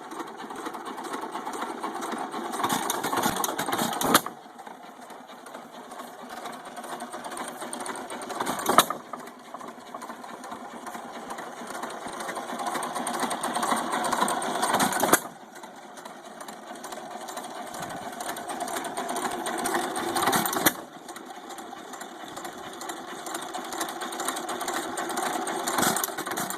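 1917 United 2½ hp hit-and-miss stationary engine running: it coasts on its flywheels, then fires with a single sharp bang about every four to six seconds, five firings in all. Its timing has been advanced well ahead of top dead centre so it runs properly.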